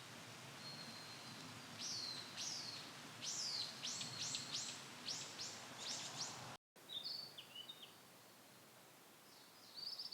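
Ashy minivet calling: a run of quick, high notes, each sliding downward. After a sudden break about six and a half seconds in, a few shorter high calls follow.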